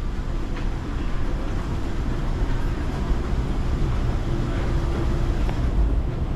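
Steady low rumble of city street ambience, traffic noise with no single event standing out.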